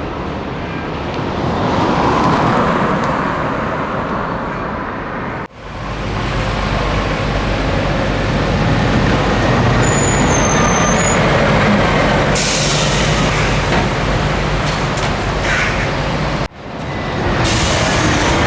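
Scania trucks on the road: steady engine and tyre noise, broken by two abrupt cuts about five and a half and sixteen and a half seconds in. A high hiss joins about twelve seconds in and again near the end.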